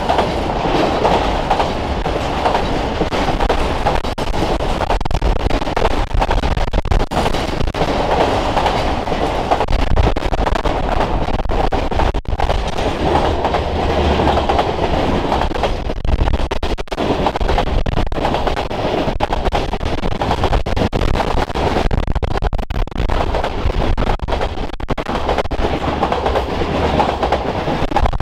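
Norfolk Southern freight train passing close by: the steel wheels of autoracks, covered hoppers and tank cars rumble steadily along the rails, clicking and clacking over the rail joints.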